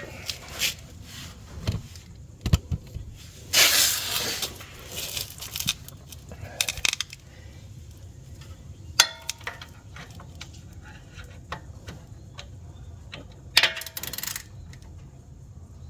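Metal hand tools clinking and rattling in scattered sharp knocks, with two longer rustling noises, about four seconds in and near the end, as tools are handled for a motorcycle gearbox drain-plug job.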